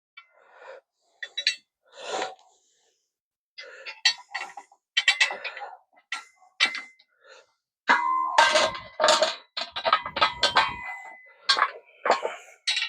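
Metal hand tools clinking and clanking as they are picked up and handled, a scattered series of knocks that turns into a denser run of ringing metal clanks in the second half.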